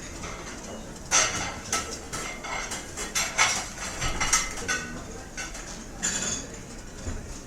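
Cutlery and dishes clinking and clattering in a busy restaurant: a flurry of sharp clinks from about a second in to the middle, a few more near the end, over steady room noise.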